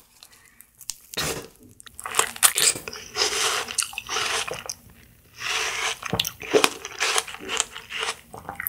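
A bite into a fresh whole strawberry topped with a small piece of apple, followed by wet, crunchy chewing of the fruit, with a short pause around the middle.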